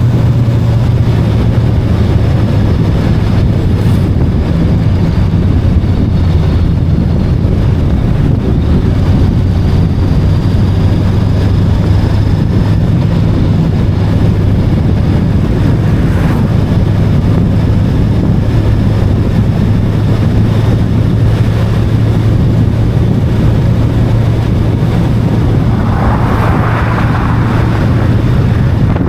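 VOGE 525DSX motorcycle's parallel-twin engine running at a steady cruising speed, with wind noise on the microphone. A brief rush of noise comes a few seconds before the end.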